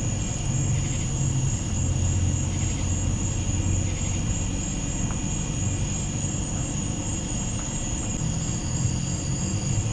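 Night insects such as crickets trilling steadily in a high, even chorus, over a low droning rumble.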